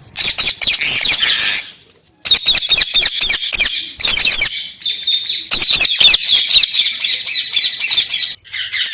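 Rose-ringed parakeet (Indian ringneck) giving loud, harsh screeching calls in rapid runs, with a brief pause about two seconds in and another near the end.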